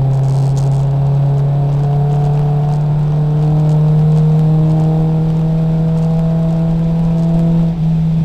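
Nissan 240SX race car's engine pulling under full throttle, heard from inside the stripped cabin, its pitch climbing slowly as the car gains speed. Near the end there is a brief dip and a step in pitch, a gear change.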